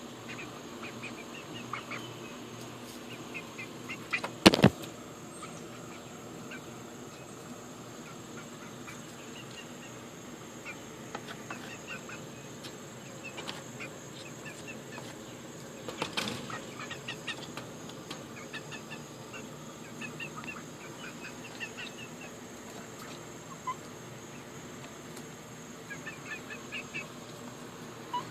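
Short, scattered chirping bird calls, over a steady high hiss, with two loud knocks about four and a half and sixteen seconds in.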